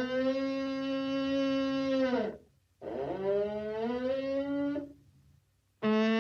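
Cattle mooing: one long call that rises, then holds steady and ends about two seconds in, a second shorter call, and the start of a third near the end.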